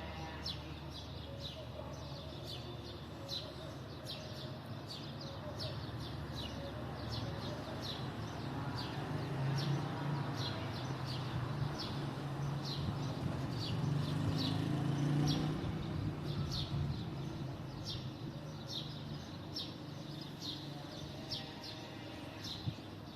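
Sparrows chirping over and over in short, quick notes, with a steady low hum underneath that grows louder in the middle.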